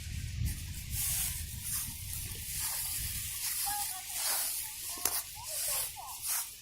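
Rustling and crunching of dry autumn leaves and undergrowth underfoot, coming in uneven swells, with a low wind rumble on the microphone mostly in the first second or so.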